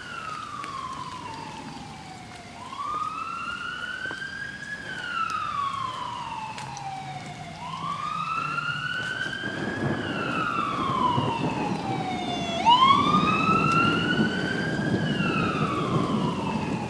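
Emergency vehicle siren sounding a slow wail, rising for about two seconds and falling for about three, repeating about every five seconds. Rain picks up about halfway through.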